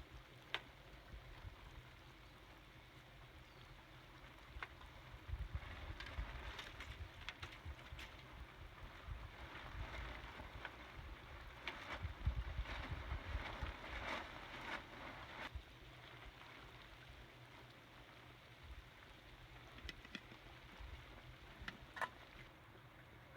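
Wind buffeting the microphone in gusts, strongest through the middle, with a faint hiss and a few scattered light clicks.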